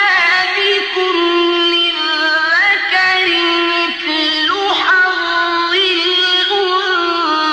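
Quran recitation chanted melodically, the voice holding long notes that slide up and down in pitch.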